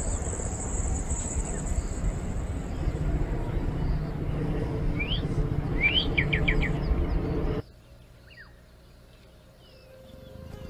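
Birds chirping over a steady low rumble, with a high insect buzz in the first couple of seconds and a quick run of five or so rising chirps about five to six seconds in. The rumble cuts off abruptly about three-quarters of the way through, leaving a much quieter background with a few faint chirps.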